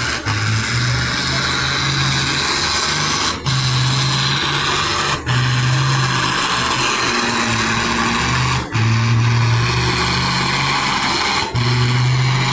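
Competition pulling tractor's engine running hard at full power under load during a pull, with a strong low drone and short dips in its note four or five times.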